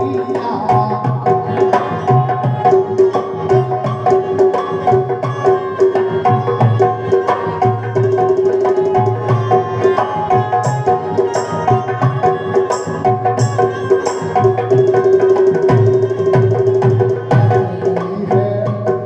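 Instrumental passage of Indian folk music without singing: hand drums beat a fast, driving rhythm under a held melody line.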